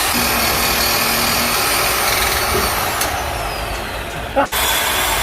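Bandsaw cutting through metal exhaust tubing, a steady loud noise that eases slightly after about three seconds, with a short knock and an abrupt break about four and a half seconds in.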